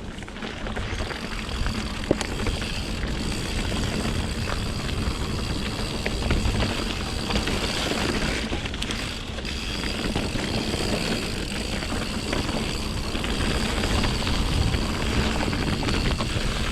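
Mountain bike on Pirelli Scorpion tyres being ridden over wet, rocky singletrack: a steady rumble of tyres and rushing air, with scattered knocks and rattles from the bike as it goes over rocks and roots.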